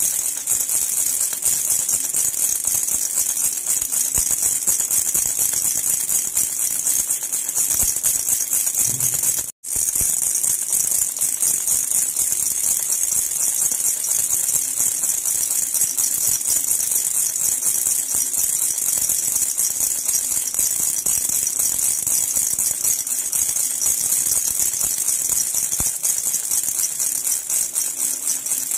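Silver jhunjhuna baby rattle shaken continuously, a dense, high metallic jingle that keeps up evenly. It breaks off for a split second about ten seconds in.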